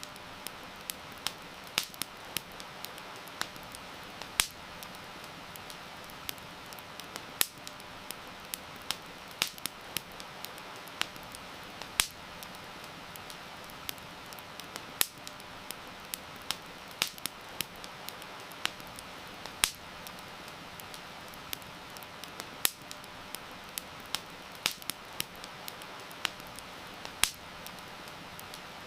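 Wood campfire crackling, with irregular sharp pops and snaps, several of them much louder than the rest, over a steady hiss of rain.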